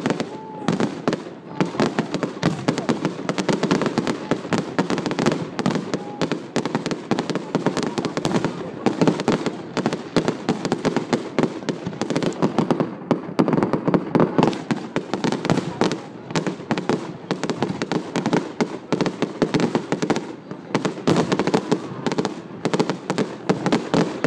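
Fireworks display going off in a rapid, unbroken string of bangs and crackles.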